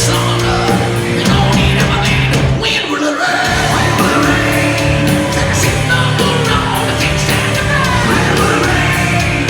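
Hard rock band playing live: distorted electric guitars, bass and drums, with a voice singing and yelling over them. The low bass drops out briefly about three seconds in, then comes back.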